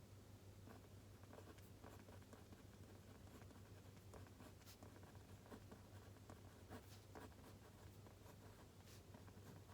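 Faint pen writing on paper: irregular soft scratches and small taps, over a low steady hum.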